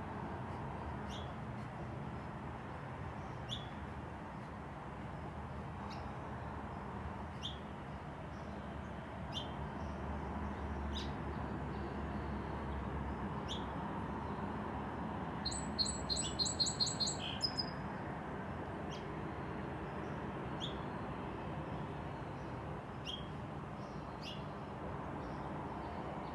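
A small songbird giving a short high chirp about every two seconds, with a quick rapid run of high notes a bit past halfway, over a steady background hiss.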